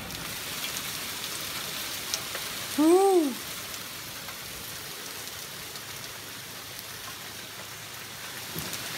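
Rain pouring down steadily in a thunderstorm: an even hiss of drops.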